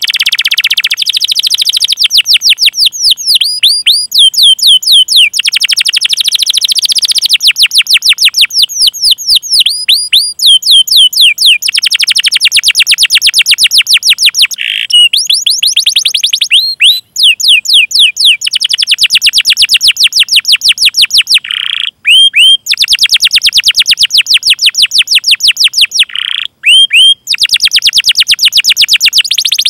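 Domestic canary singing long rolling trills of rapid, repeated downward-sweeping whistled notes, broken by a few brief pauses and short chirps.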